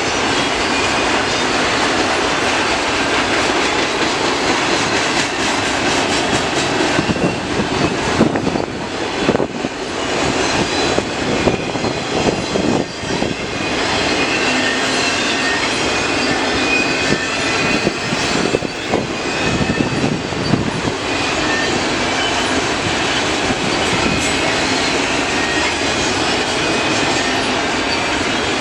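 Cars of a CN mixed freight train rolling past: a loud, steady rumble and clatter of steel wheels on the rail, uneven for a few seconds in the middle.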